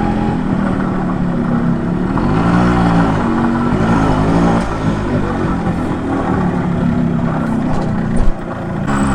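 Yamaha RX 100's two-stroke single-cylinder engine running under way, its pitch rising and falling with throttle and gear changes, over steady wind and road noise. The level dips briefly near the end.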